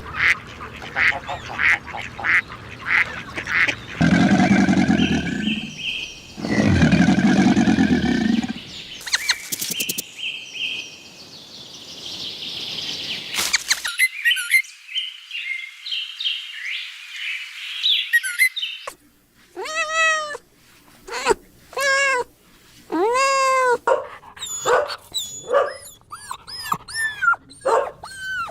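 Animal calls from several different animals, one after another. Loud low calls come about four seconds in, and a run of short, arched, repeated calls fills the last third.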